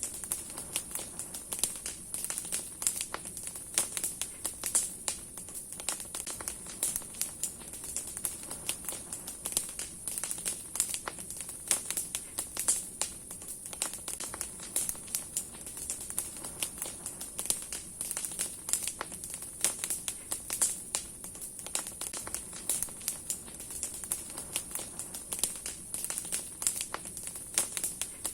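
Wood fire crackling: many irregular sharp pops and snaps from burning branches over a steady hiss of flame.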